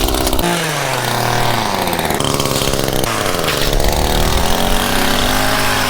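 Two-stroke chainsaw cutting small tree limbs, revved several times with its pitch falling back after each burst of throttle.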